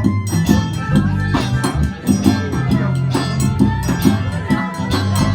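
A band playing live: a bass line of sustained low notes under a steady beat of drums and shaken percussion.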